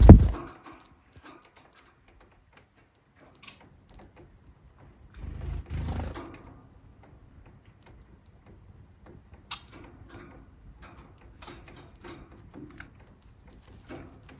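Society finches moving about a cage, with scattered light taps and clicks and a few short chirps. A loud low thump at the very start fades within half a second, and a softer noisy rush comes about five to six seconds in.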